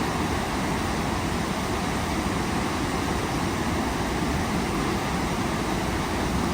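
Waterfall running: a steady, unbroken rush of falling water, heaviest in the low end.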